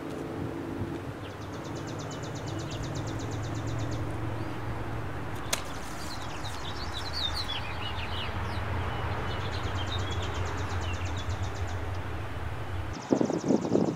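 Songbirds calling: a fast, high trill repeated a few times and short chirps gliding in pitch, over a steady low hum. A single sharp click about halfway through, and louder rustling near the end.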